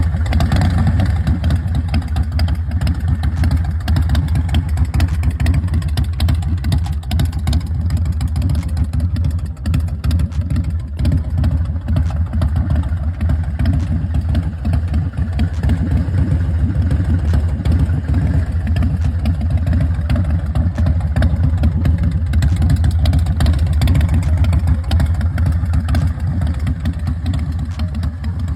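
2005 American IronHorse LSC chopper's V-twin engine running steadily, with small rises and dips in loudness.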